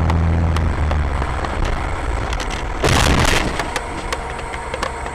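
Vehicle noise from a moving car, then about three seconds in a brief loud crash of a collision impact, lasting about half a second.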